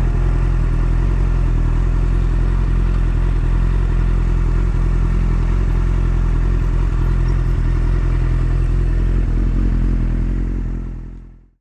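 Yamaha YZF-R1's inline-four engine running at a steady pitch while riding, with wind and road noise over it. The sound fades out in the last second.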